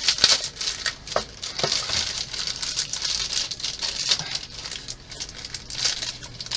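Plastic packaging bag being crinkled and torn open around a large model kit part, with irregular crackling and rustling throughout.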